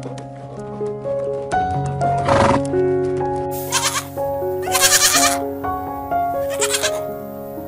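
Domestic goat bleating three times, a second or two apart, over steady background music.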